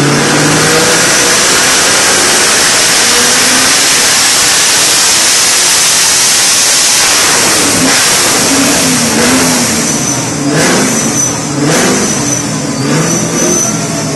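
A fourth-generation Chevrolet Camaro's engine making a dyno pull. It runs loud and wide open for about eight seconds, then eases off and revs up and down as it slows, with a few sharp pops about three-quarters of the way through.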